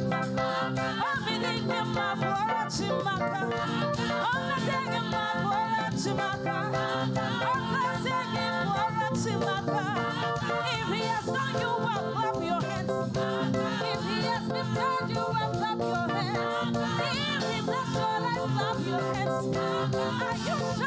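Live gospel praise music: singing over a band, with a steady beat.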